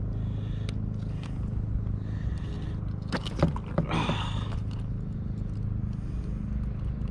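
Steady low hum throughout, with a small fish being unhooked by hand: a cluster of sharp clicks and a short rattling, splashy rush about three to four seconds in.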